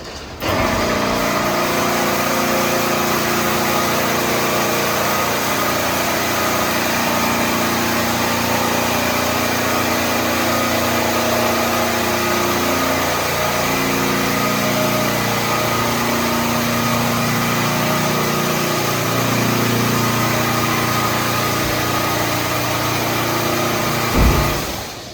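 Machinery of a PDQ ProTouch Tandem automatic car wash running: a loud, steady motor hum mixed with hiss. It switches on abruptly and ends with a thump near the end.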